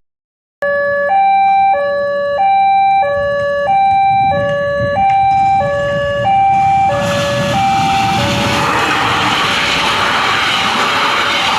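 Railway level-crossing warning alarm sounding an electronic two-tone chime, low and high tones alternating about every two-thirds of a second; it cuts in after a brief silence. From about seven seconds in, the rising rush of an approaching train grows over it and the chime fades under it.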